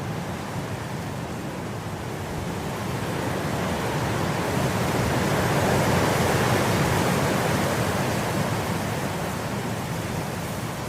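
Wind blowing through grass, a steady rushing that swells into a stronger gust about halfway through and then eases off.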